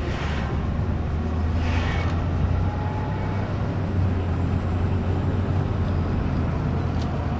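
A steady low rumble over an even hiss, with no distinct events.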